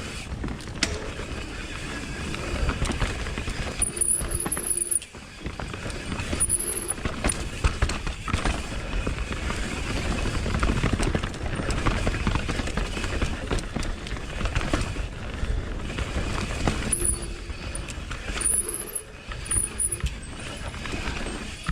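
Mountain bike rolling fast down a loamy dirt trail: tyre roar, rattling of the bike, and wind on the microphone. Brief high-pitched squeals come twice, about four seconds in and again near the end.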